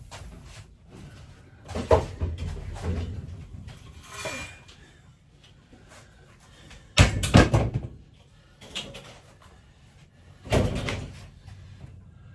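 Bangs and knocks of interior wall panelling and fittings being wrenched loose during a demolition, with a scrape about four seconds in and a cluster of loud strikes about seven seconds in.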